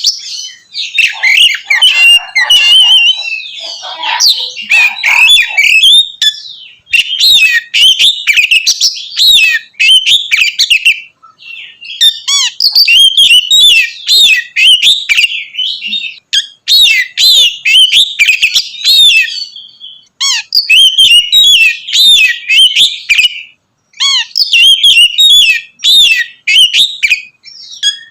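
Oriental magpie-robin (kacer) singing a loud, varied song of rapid whistled and chattering phrases, delivered in runs of a few seconds with short pauses between them.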